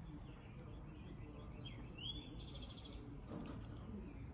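A bird calling about two seconds in: a rising note that runs into a rapid trill, lasting about a second, over a low steady background noise.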